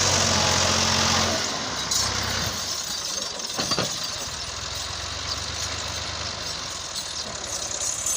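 Massey Ferguson 260 tractor's diesel engine running steadily, then dropping to a quieter, lower run just over a second in, with a single sharp knock a few seconds later.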